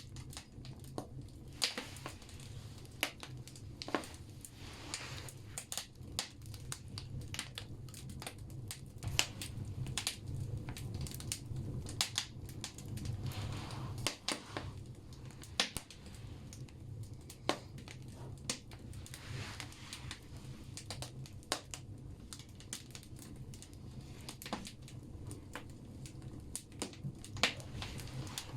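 Firewood burning in a bathhouse stove: irregular sharp crackles and pops over a low, steady rumble from the fire, with occasional soft hissing swells.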